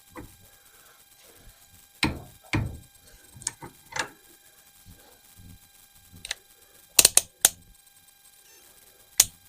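Irregular metallic clicks and knocks from a torque wrench being reset and worked on an AR-15 barrel nut, with a quick run of three sharp clicks about seven seconds in and one more near the end.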